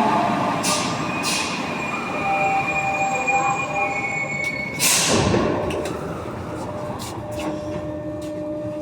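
Santiago Metro NS-93 train slowing with squealing tones, then a sharp burst of air hiss about five seconds in that fades away, leaving a steady electrical hum.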